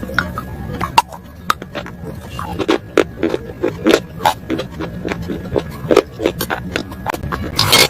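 Chewing crunchy food close to the microphone: irregular sharp crunches, several each second, over a steady low hum.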